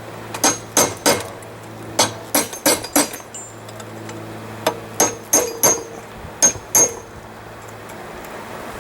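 Hammer blows on a hot railroad spike on the anvil, struck in quick groups of two to five with a ringing tone, moving steel down to shape an elephant head. About fifteen strikes in all, stopping about seven seconds in, over a steady low hum.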